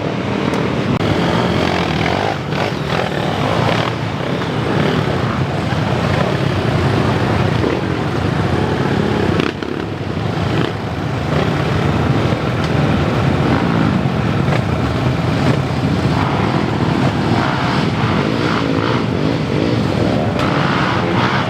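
Motocross bike engines revving hard and continuously, the pitch rising and falling as several engines overlap.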